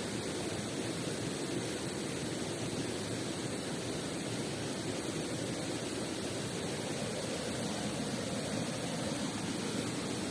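Mountain river and waterfall water rushing: a steady, even noise with no distinct events.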